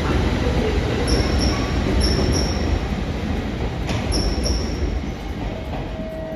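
Train running past on the rails, a steady rumble that eases off near the end.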